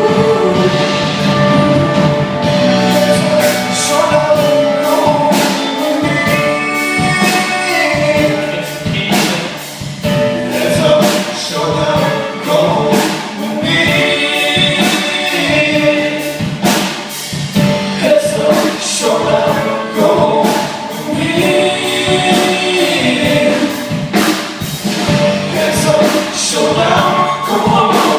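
Live rock band playing with drums and several voices singing together, heard through a phone microphone at close range.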